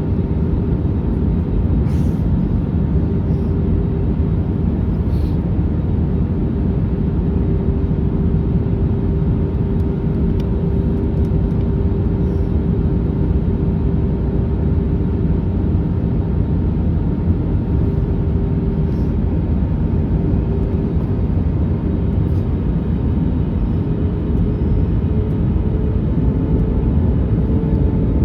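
Steady cabin noise inside an Airbus A321neo in flight: a low rumble of airflow and the Pratt & Whitney PW1100G geared turbofan engines, with a faint steady hum that rises a little in pitch in the last few seconds.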